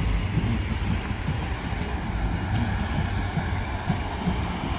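Class 450 electric multiple-unit train running through the station, a steady rumble of wheels on the track. A brief high-pitched squeal comes about a second in.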